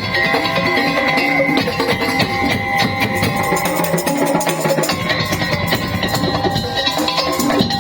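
Madurese tong-tong ensemble playing: wooden slit drums and drums beating a dense, steady rhythm, with sustained pitched tones above the percussion.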